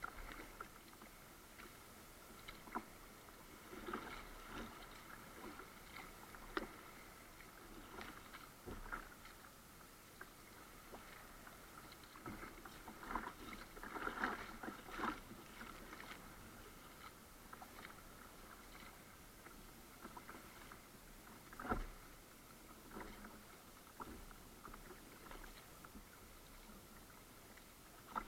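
Kayak paddle strokes in the water: quiet, irregular small splashes and drips, a few of them sharper and louder.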